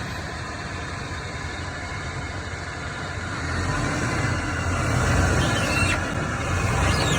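Vehicle engine running steadily and growing louder from about halfway through as it moves, with a faint high squeak near the end.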